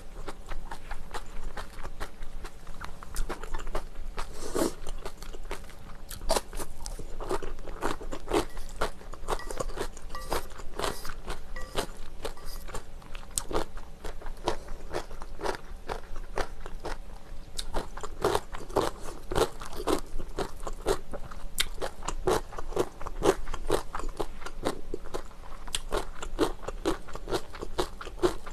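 Close-miked eating of spicy Korean bibim noodles with kimchi: steady, irregular wet chewing and mouth clicks with crisp crunches.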